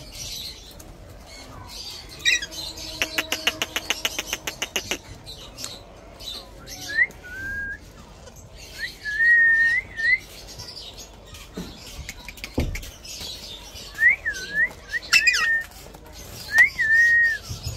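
Alexandrine parakeet chick calling with short whistled notes that glide up and down, repeated every second or two from about seven seconds in. Earlier there is a quick rattling run of clicks.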